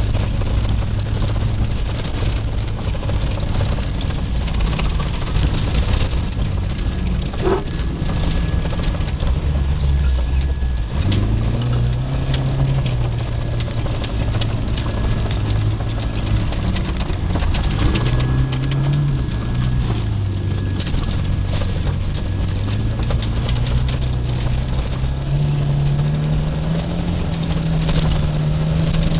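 VAZ 2108 (Lada Samara) engine running hard, its pitch falling sharply about eleven seconds in, then rising and falling and climbing steadily near the end, over a steady rush of noise.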